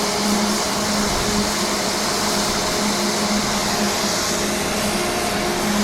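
Steady rushing wind noise in a blizzard, with a low steady hum that drops in and out.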